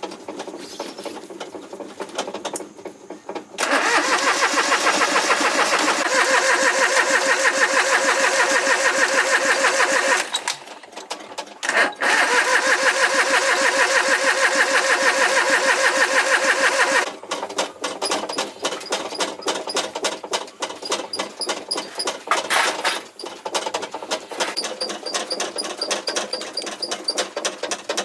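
A motor runs steadily in two stretches of several seconds, with a short stop about ten seconds in and a restart. Afterwards come irregular rapid clicks and rattles.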